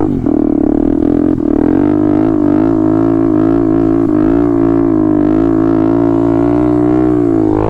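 KTM Duke 250 single-cylinder engine held on the throttle at steady high revs through a wheelie: a steady drone with a slight waver in pitch.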